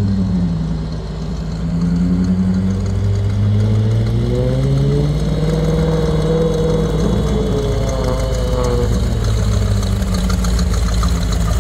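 A rat rod pickup's engine running at low road speed as the truck rolls past. Its pitch dips about a second in, climbs over the next few seconds, then holds with small rises and falls as the throttle moves.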